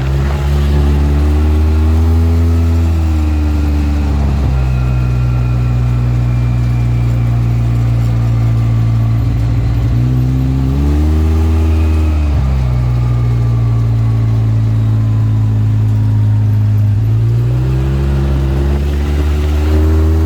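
A vehicle engine drones on the road, its pitch rising and then dropping back sharply three times, as when accelerating and shifting gear, with a steady drone in between.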